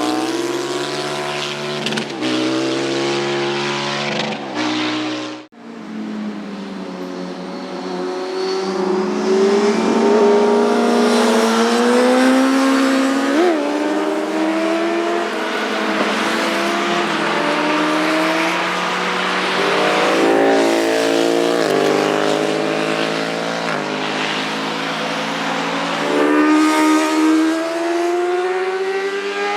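Sports motorcycle engines passing at speed, revving up and down through gear changes, several machines one after another. The engine note rises steadily for several seconds after an abrupt cut about five seconds in, then steps down and climbs again.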